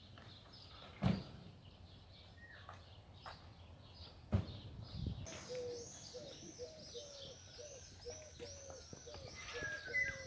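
Small birds chirping in a fast, repeated series of short notes, starting about five seconds in. Two sharp knocks come earlier, about one second and four and a half seconds in.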